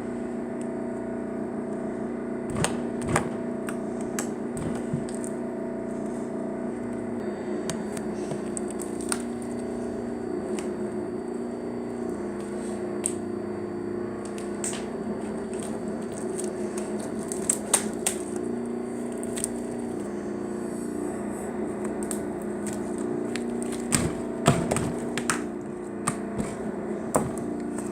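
Slime being poked and squished, making scattered sharp clicks and pops, with small clusters a few seconds in, near the middle and near the end. Under it runs a steady hum of several held low tones that shift every several seconds.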